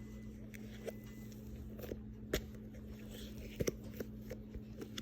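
Butter foam slime being squeezed and poked by hand, giving a scattered run of small crackling clicks and squishes over a faint steady hum.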